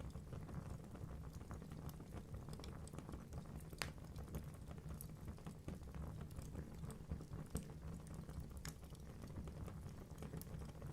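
Wood fire burning in a fireplace: a steady low rumble of the flames with irregular crackles and pops from the logs, the sharpest pops about four seconds in and near nine seconds in.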